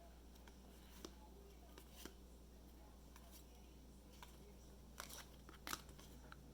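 Near silence with a low hum, broken by a few faint clicks and soft rustles of trading cards being handled and shuffled.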